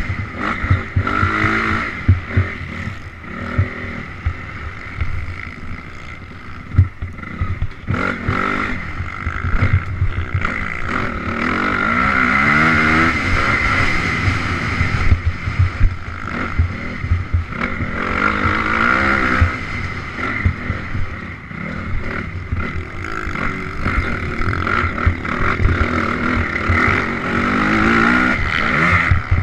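Honda CRF 250R's single-cylinder four-stroke engine under riding load. The revs climb and drop again and again as the bike accelerates and shifts, with frequent heavy low thumps.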